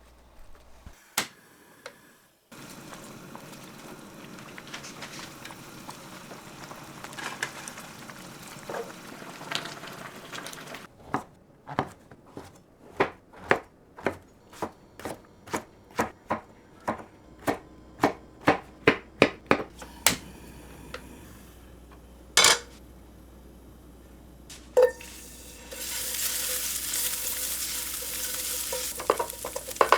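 Home cooking at the stove: a run of sharp, regular knocks that speed up from slow to about three a second, a single loud knock, then food hitting hot oil and sizzling loudly in a pan for the last few seconds.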